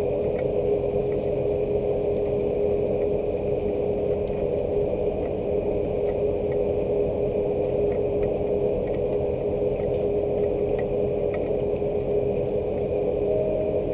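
Steady rain falling, a dense even wash with a steady hum underneath and occasional faint ticks.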